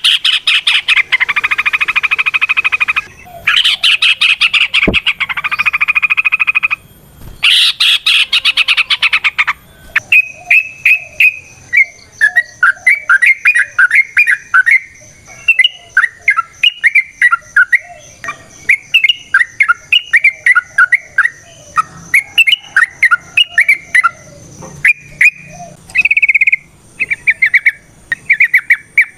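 Yellow-vented bulbul (trucukan) singing loudly: about the first ten seconds are fast rattling chatter, and after that comes a long run of short, bubbly, warbled phrases.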